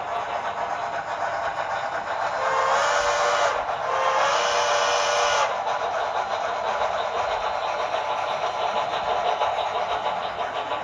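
Speaker sound of a Tsunami 2 sound decoder in an HO scale Santa Fe steam locomotive model: steady rapid exhaust chuffing, with two whistle blasts, a shorter one and then a longer one, a few seconds in.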